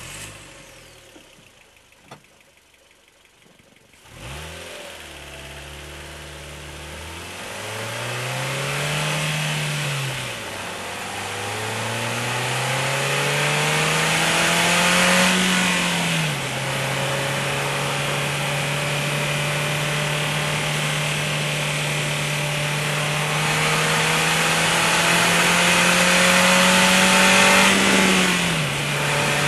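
2007 PGO Cevennes engine heard from inside the cabin: it starts about four seconds in, idles briefly, then pulls away and revs up through the gears, with three upshifts. Between shifts it holds a steady cruise under growing road and wind noise.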